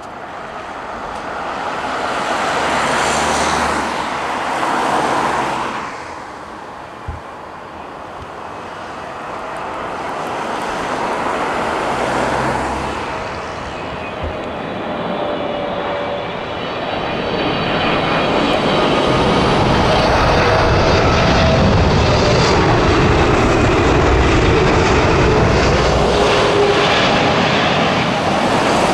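Boeing wide-body twinjet airliner on landing approach passing close by: jet engine noise swells and fades in the first few seconds, then builds again to a steady loud rush with a whining engine tone through the last ten seconds.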